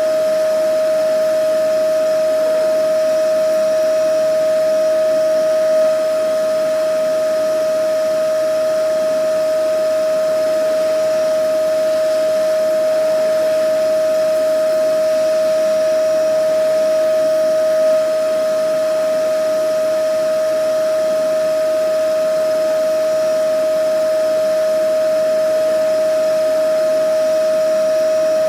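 Vacuum cleaner running steadily: a constant whine over an even rush of air, with a slight swell in loudness about every twelve seconds.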